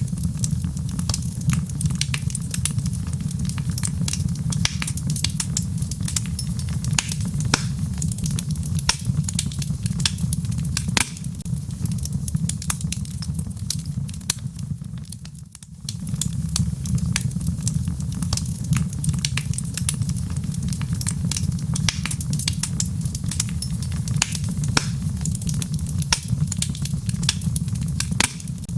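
Wood logs burning in a fireplace, crackling and popping with many sharp snaps over a steady low rumble of the flames. The sound dips briefly about halfway through, then carries on.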